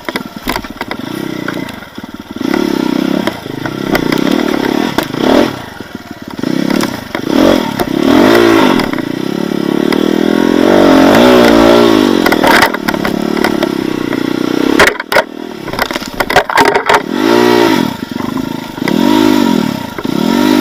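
Enduro motorcycle engine revving up and down unevenly, as at low speed over rough ground, with knocks and clatter. The engine drops out briefly with sharp knocks about two-thirds of the way in. Near the end it gives a run of short blips, about one every second and a half.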